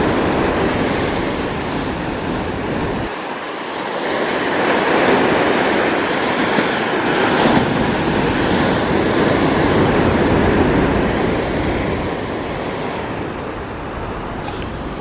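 Ocean surf with wind, a steady rushing noise that swells in the middle and eases off towards the end.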